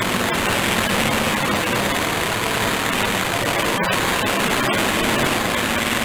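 Demolition derby car engines running together, a steady, dense roar.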